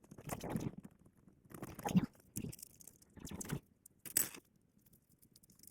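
Hands handling small plastic and metal parts of an HO-scale model locomotive: several short scraping, crunching clicks, the last about four seconds in.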